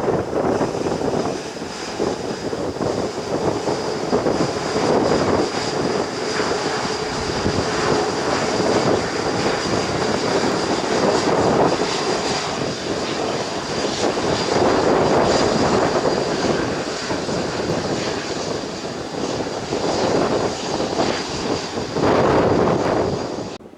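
Jet airliner landing past at close range, its engines running loud with a steady high whine over a rushing noise that swells and fades. The sound cuts off suddenly near the end.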